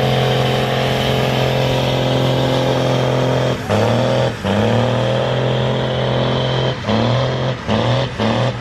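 Tractor engine at full throttle dragging a weighted pulling sled, running hard and steady. About three and a half seconds in, the revs drop and then climb again at a gear change. Near the end the revs dip and recover several times in quick succession.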